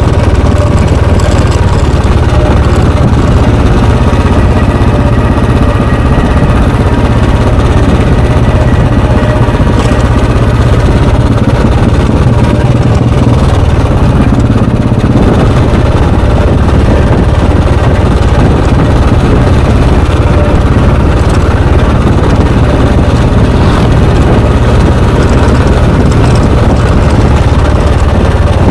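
Royal Enfield Bullet 350's air-cooled 346 cc single-cylinder four-stroke engine and exhaust running steadily and loud.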